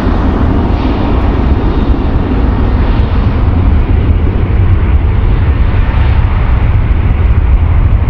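Jet airliner engines at high power, a loud steady rumble heaviest in the low end with a hiss above it that thins slightly toward the end.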